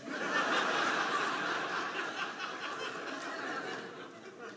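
Audience laughing at a punchline, loudest at the start and dying away over a few seconds.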